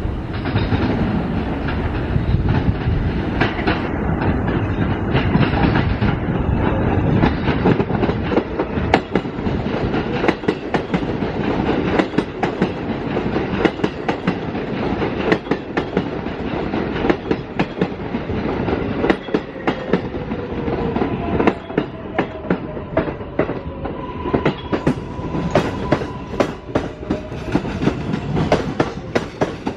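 New York City subway L train running through the station, its wheels clacking over rail joints, the clacks coming quicker in the last few seconds. A faint motor whine slides in pitch through the second half.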